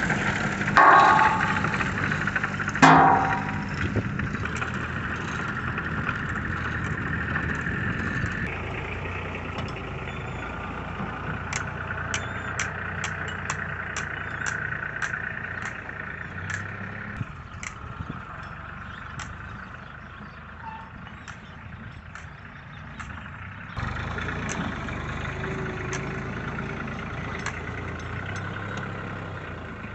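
Tractor engine running steadily, with loud clattering in the first few seconds and a run of sharp, evenly spaced ticks through the middle.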